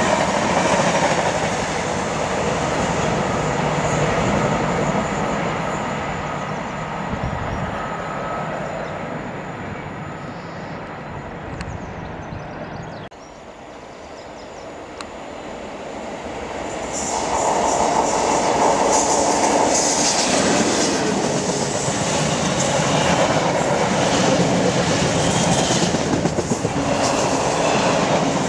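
Intermodal container freight train rolling past, its wagon wheels clattering over rail joints and the sound fading away. About 13 s in it cuts off, and another train is heard approaching and then passing loudly with rapid clicking of wheels over the joints.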